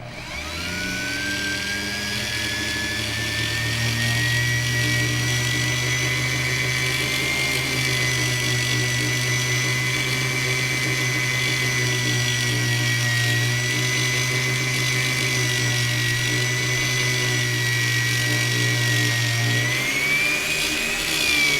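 Small electric power tool polishing with compound, its motor whining steadily after spinning up at the start, with a brief rise in pitch near the end.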